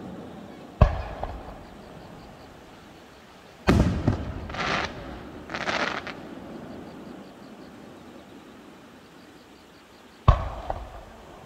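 Aerial fireworks shells bursting: three sharp booms, about a second, four seconds and ten seconds in, each trailing off in a rumbling echo, with two shorter bursts of noise between the second and third.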